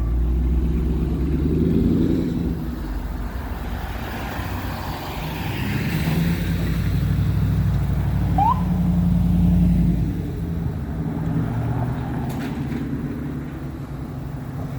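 Motor vehicle engines running at low revs, a steady low rumble that swells and eases, with a brief short rising chirp about eight seconds in.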